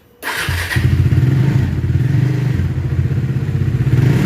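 Bajaj Dominar 400 BS4's single-cylinder DOHC engine starting up, catching within about half a second and then idling steadily. It idles without timing-chain noise after the timing-chain tensioner repair.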